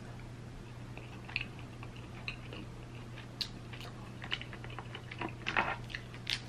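A person chewing king crab meat with wet mouth clicks and lip smacks, sparse at first and busier after about four seconds, over a faint steady low hum.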